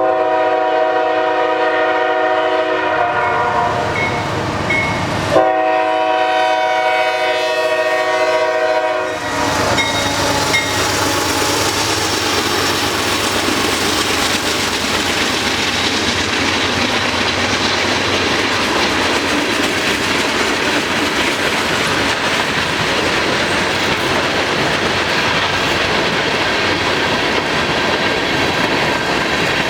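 Freight locomotive horn sounding two long chords, the second beginning about five seconds in, then the freight train running past in a loud, steady noise of wheels and cars on the rails.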